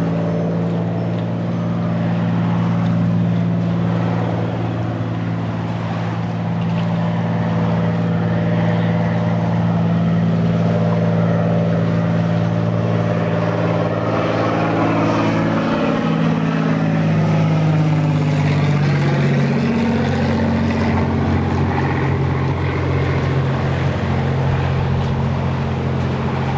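Single-engine light propeller plane flying low past, its engine drone steady and loud; about two-thirds of the way through the pitch drops as the plane passes overhead and moves away.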